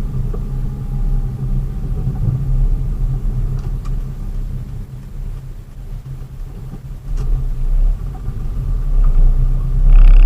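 Vehicle engine and road rumble while driving, a steady low drone that eases off about halfway through, then builds again and is loudest near the end.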